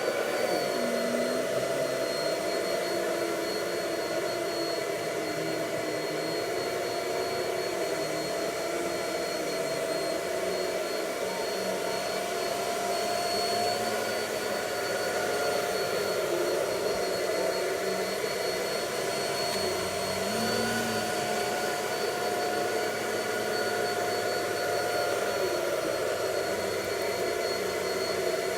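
Bissell PowerForce Rewind Pet PowerLifter vacuum cleaner running steadily, a constant motor whine and airflow rush, its pitch shifting slightly a few times as it works over carpet dusted with cornstarch.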